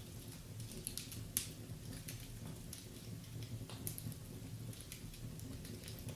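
Wood fire burning in a fireplace, crackling and popping irregularly over a low steady rumble, with one sharper pop about a second and a half in.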